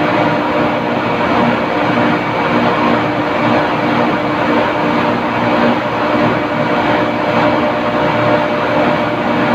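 Industrial refrigeration plant machinery running steadily: a constant mechanical drone with several steady hum tones layered in it.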